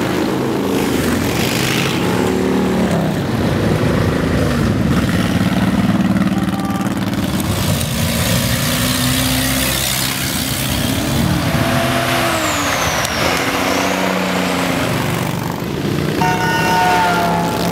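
A stream of Harley-Davidson motorcycles rumbling past, many engines overlapping and rising and falling in pitch as riders rev and pass.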